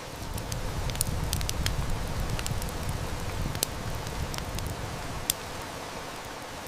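Steady rain hiss mixed with a wood fire crackling, its sharp snaps scattered through. A low rumble of distant thunder swells in about half a second in and fades out before the end.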